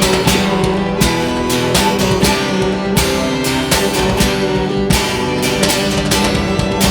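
A live band playing an instrumental passage: strummed guitar over a steady beat, with no singing.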